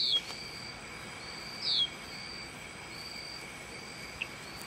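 A bird gives two short falling whistles about a second and a half apart, with fainter short high notes between them, over a steady high-pitched insect trill.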